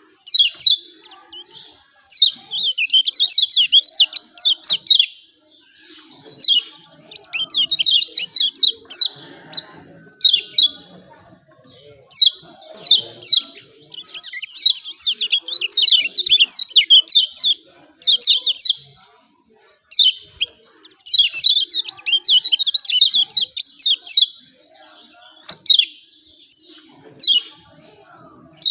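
Kecial kuning (lemon-bellied white-eye) giving its rapid "ciak ciak" chirping calls: quick runs of high, sharply falling notes in loud bursts of one to three seconds, broken by short pauses.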